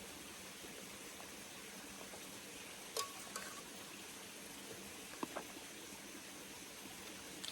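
Steady faint hiss of outdoor background noise, broken by a few short sharp clicks and knocks about three seconds in, twice a little after five seconds, and once near the end.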